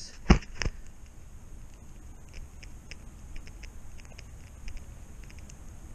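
Two sharp knocks from the camera being handled, then faint, irregular crackling ticks.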